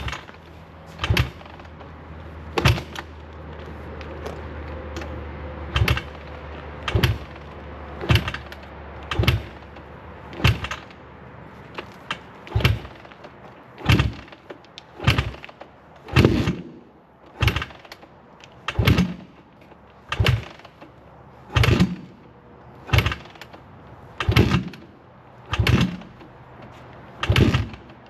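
A motorcycle being tried over and over without starting: a short, sudden start attempt about every second and a bit, some twenty times, and the engine never catches. Its fuel tap is still turned off.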